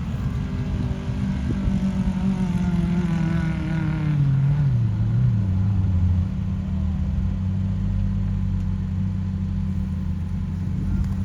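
Off-road 4x4's engine running under load, its revs falling steadily over a few seconds, then holding at a steady lower speed.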